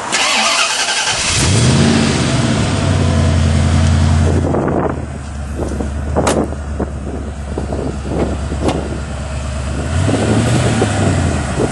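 1967 Ford Mustang's fuel-injected 5.0 V8 with extractors being push-button started: about a second of starter cranking, then it catches and runs at a fast idle that drops to a steady idle a few seconds later. A sharp clack about six seconds in, and a brief rev of the engine near the end.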